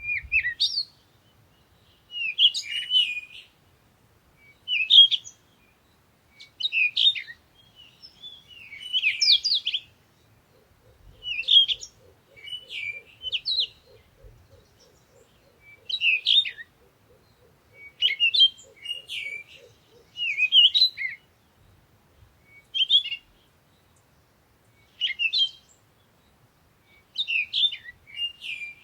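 Songbird singing short, high chirping phrases, one every second or two, with gaps of silence between them. About ten seconds in, a faint, rapid, low pulsing call joins underneath for roughly ten seconds, then stops.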